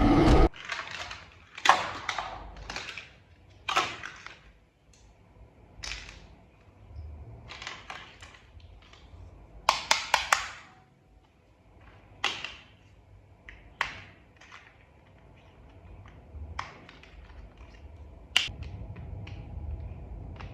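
Plastic toy parts being handled and snapped together: scattered clicks and knocks every second or two, with a quick run of several clicks about ten seconds in.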